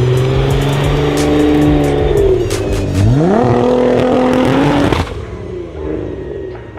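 Modified performance car engine at high revs: the pitch sags, then climbs sharply into a hard rev about three seconds in, holds, and cuts off abruptly about two seconds later, with sharp cracks along the way.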